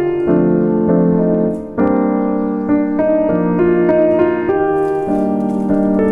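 Background music: a calm solo piano playing a gentle melody with a steady flow of notes.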